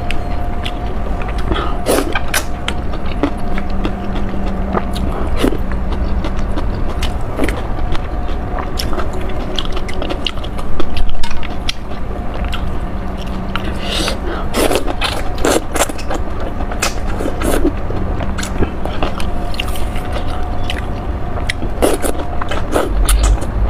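Close-up eating of spicy noodles: chewing and biting with many short wet clicks, over a faint steady hum. A brief louder low thud comes about halfway through.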